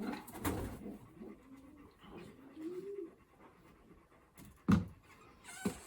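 Racing pigeons cooing low in the loft, one rising and falling coo about halfway through. A sharp knock about three-quarters of the way in is the loudest sound, followed by a smaller click.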